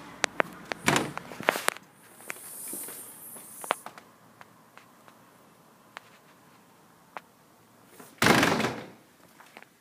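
Footsteps and scattered clicks and knocks of a door being worked as someone goes into a house, with a cluster of knocks early on and one loud door sound, lasting under a second, about eight seconds in.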